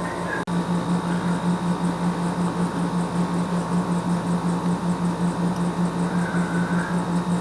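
A steady low mechanical hum with an even pulse, about seven or eight beats a second, from a running machine.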